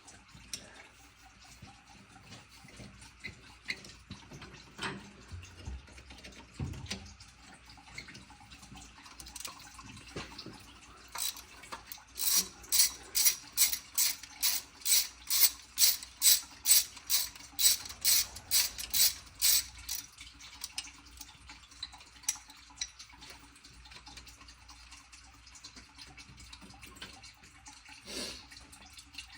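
Hand ratchet wrench worked back and forth on an engine bolt: a run of about twenty quick, even rasping strokes partway through, with scattered light metal tool clinks before and after.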